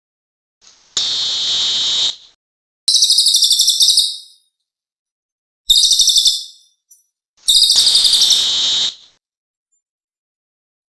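Cililin bird song as used for lure playback: four loud, high, rapid trills, each lasting about a second, with short silent gaps between them.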